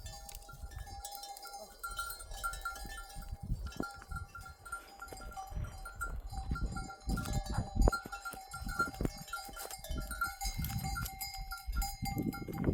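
A flock of sheep and goats on the move, their livestock bells ringing and clinking continuously, with occasional bleats and scuffing hooves.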